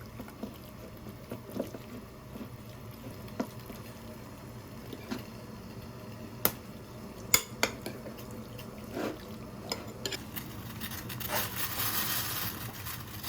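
Kitchen utensils and dishes clinking and knocking, with a few sharp strikes about halfway through. A louder rough noise builds near the end.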